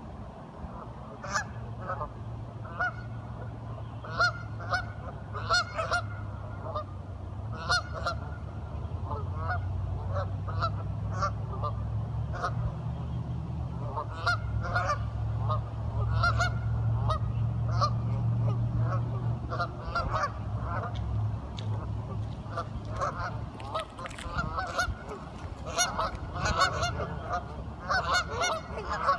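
Waterfowl calling: many short, nasal quack-like calls in quick succession from several birds, over a steady low hum that fades out near the end.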